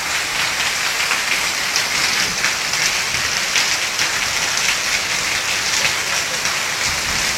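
Steady rain falling and pattering on surfaces, an even hiss with scattered drops.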